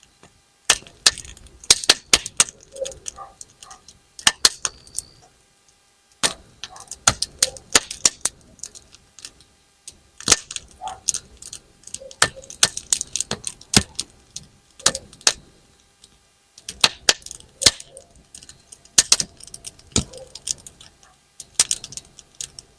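Campfire of firewood burning, crackling and popping with sharp, irregular snaps in quick clusters, like bang-snap firecrackers being thrown.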